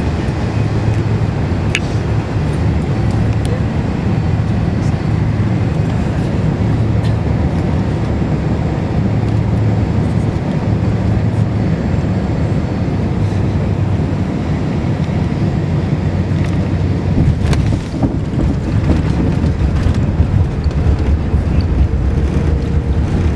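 Airbus A380 cabin noise on landing: a steady, loud low rumble of engines and airflow with a low hum. About three quarters of the way through there is a sharp knock, and after it the rumble turns rougher and more uneven.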